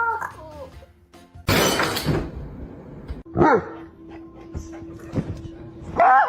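A dog barking over background music, with a loud burst of noise about a second and a half in.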